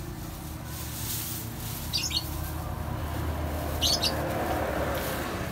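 A small bird chirping in two short quick bursts, about two seconds apart, over a steady low hum.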